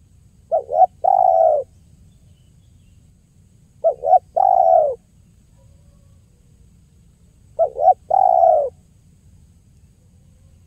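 Spotted dove (tekukur) cooing its 'kuk 1' call three times, about every three and a half seconds; each phrase is two short notes followed by a longer, falling note.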